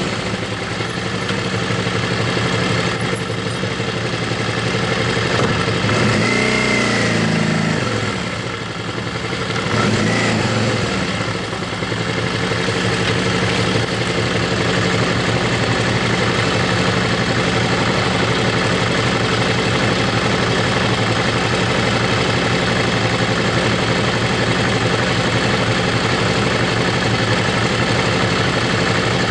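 Motorcycle engine running steadily on the move, with an even rush of wind and road noise. Twice, between about six and twelve seconds in, the engine note dips and comes back up, then it runs on steadily.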